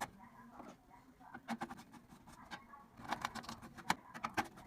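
Light, irregular clicks and taps of small parts and tools being handled on a desktop computer motherboard during repair, with a cluster about a second and a half in and a denser run from about three seconds in.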